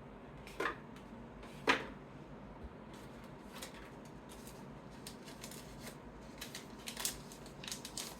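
Trading cards being handled and sorted by hand: two sharp snaps about half a second and a second and a half in, then a run of light clicks and taps as cards are shuffled and laid down.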